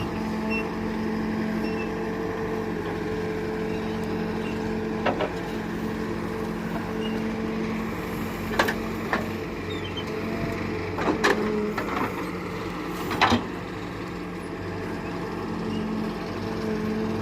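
Diesel engine of a working farm or earth-moving machine running steadily at an even pitch, with several sharp metallic knocks scattered through, the loudest about 8.5 and 13 seconds in.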